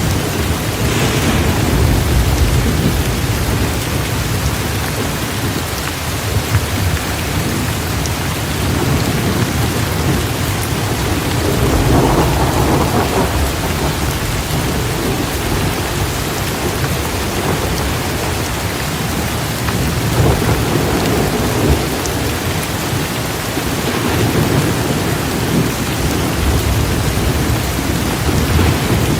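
Heavy, torrential rain falling steadily, with thunder rumbling low beneath it; the thunder swells about twelve seconds in.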